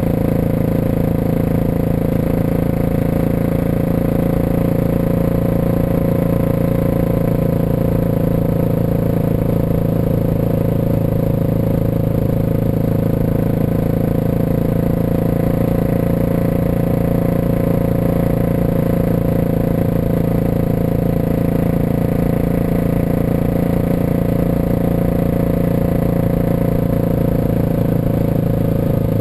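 Suzuki DR650 single-cylinder motorcycle engine running at a steady, even speed, with little wind noise on the microphone.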